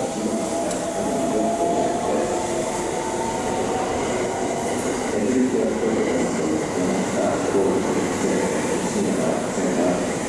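Electric train running through the station at a platform: a steady rail rumble with a faint thin whine in the first couple of seconds.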